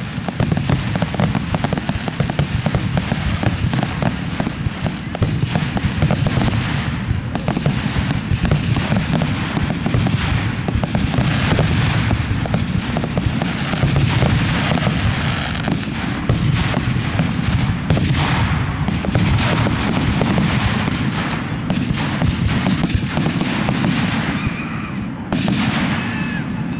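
Fireworks going off in a dense, continuous barrage of booms and crackles.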